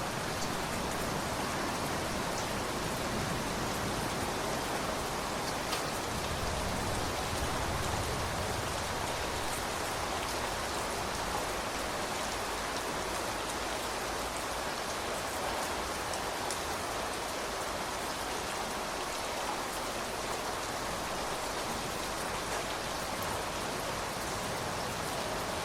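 Steady heavy rain falling and pattering on surfaces, with a low rumble swelling briefly about a quarter of the way in.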